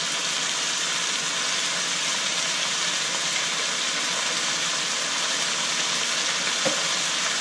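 Chicken pieces sizzling steadily in a frying pan: a constant, even frying hiss.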